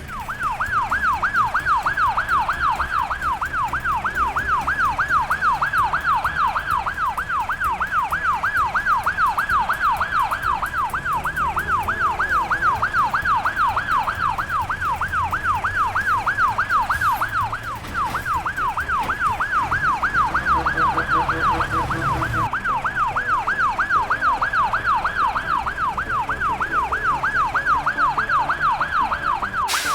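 Ambulance siren in a fast yelp, its pitch sweeping up and down several times a second, with a brief break about eighteen seconds in. A low rumble sits underneath.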